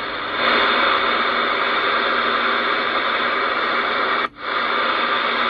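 Galaxy DX 979F CB radio's speaker hissing with loud, steady band static on receive while hooked to the antenna. The hiss grows a little louder about half a second in and cuts out for a moment about four seconds in.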